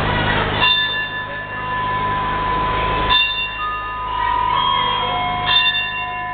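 Bell-like chime notes, several ringing together, struck in three groups about a second, three seconds and five and a half seconds in, over a low steady rumble.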